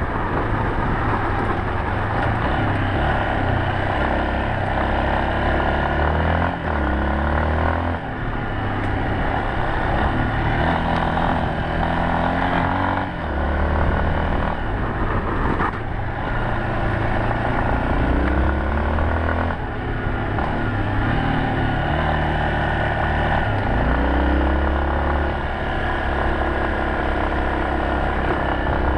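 Yamaha Serow 250's single-cylinder four-stroke engine under way, its pitch rising and falling over and over as the throttle opens and closes, with short dips in between.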